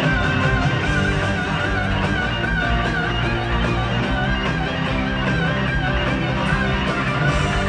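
Rock music with electric guitars: a lead guitar line with bent, wavering notes over strummed guitar and a full band.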